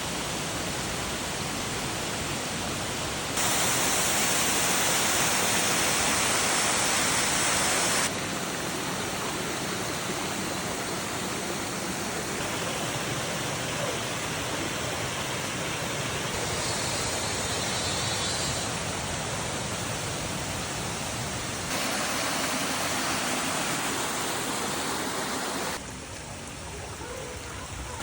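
Steady rushing noise of running water that jumps in loudness and brightness several times: louder and hissier for a few seconds early on and again later, then duller near the end.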